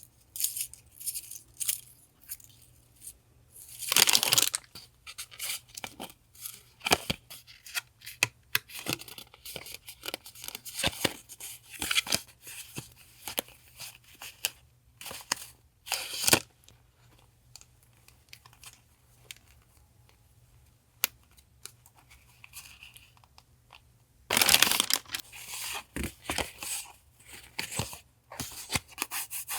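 Close-up paper handling: handmade notebooks and their paper rustling, crinkling and tapping, with a short rip about four seconds in and a longer one about twenty-four seconds in.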